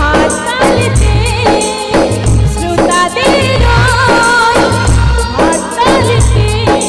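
Bengali Baul folk song: a wavering melody over a steady drum beat, with deep drum strokes and quick high jingling percussion.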